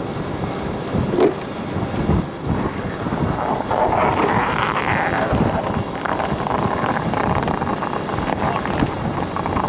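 Wind buffeting the microphone, with an irregular low rumble and scattered knocks.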